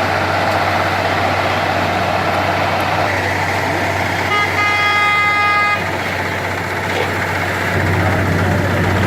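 Heavy vehicle engines running steadily with a constant low hum, and a vehicle horn sounding once for about a second and a half midway.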